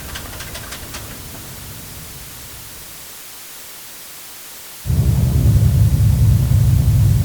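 Airplane sound effects: the noisy hiss of one recording dies down. About five seconds in, a loud, low, steady aircraft engine rumble starts abruptly.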